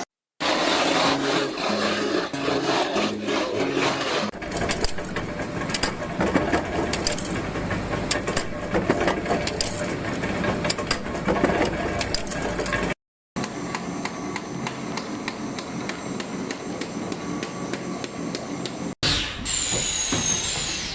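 Scraping and rubbing with many sharp clicks and taps, broken by abrupt cuts into different clips about two-thirds of the way through and again near the end.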